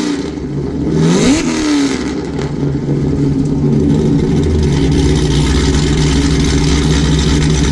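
Cadillac CTS-V's supercharged LSA V8, fitted with a BTR stage 3 cam, long-tube headers and no catalytic converters, blipped once about a second in. The pitch rises and drops quickly, then it settles back to a steady, choppy idle.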